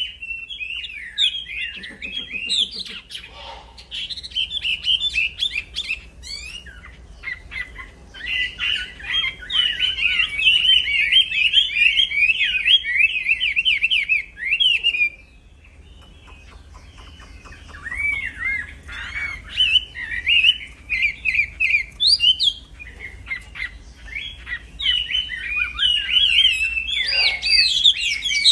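A wambi songbird singing a fast, continuous warbling and chattering song that it sustains at length. The song breaks off for about two seconds halfway through, then resumes.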